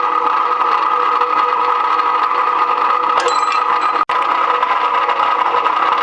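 Electric rebar machine running steadily with a constant hum, with a short clatter about three seconds in and a momentary cut in the sound about a second later.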